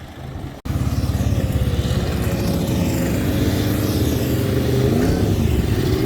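Loud vehicle engine driving past close by, starting abruptly under a second in, its exhaust pulsing low and fast. About five seconds in, the pitch rises as it accelerates.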